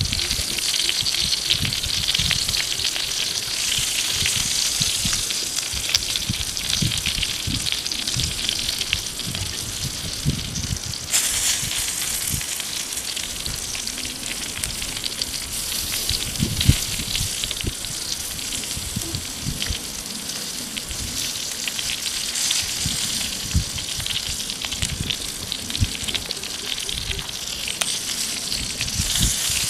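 Pig intestines sizzling and crackling as they fry on a leaf laid over a hot rock. Irregular soft low knocks run underneath as a knife turns the pieces.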